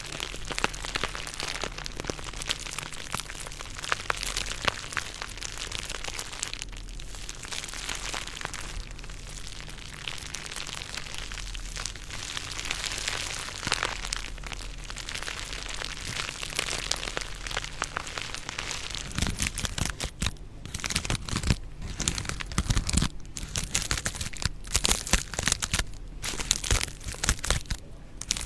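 Stones rubbed and scraped together close to the microphone: a gritty, crackling scrape full of small clicks. About two-thirds of the way in it turns heavier, with deeper knocks and grinding between the stones.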